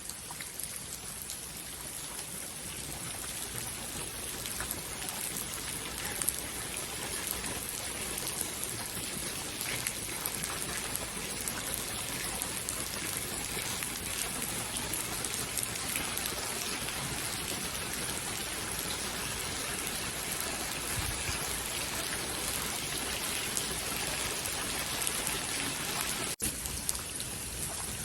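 Steady rainfall, an even hiss with the small ticks of individual drops hitting a surface. It cuts out for an instant near the end.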